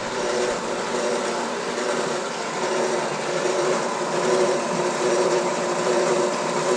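Loud, steady mechanical running noise that starts and stops abruptly.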